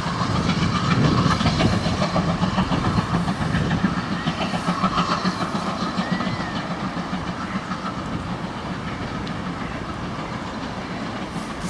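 Steam-hauled train of a GWR 56xx 0-6-2 tank locomotive, no. 6695, moving off, its wheels clicking over the rail joints. It fades gradually as it draws away.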